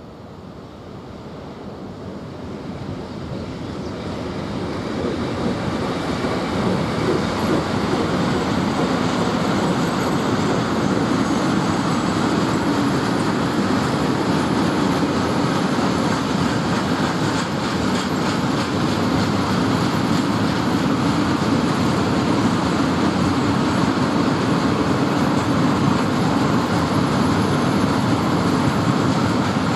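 A train passing on the line, its noise building over the first six seconds and then holding steady and loud as the cars roll past.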